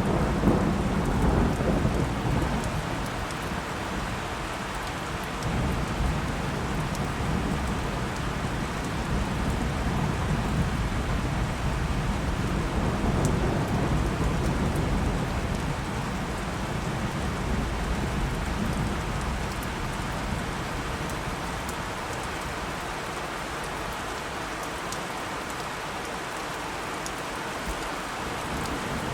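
Steady heavy rain with thunder: a crack of thunder right at the start that rolls off into a low rumble, and a second long roll swelling through the middle before it dies down.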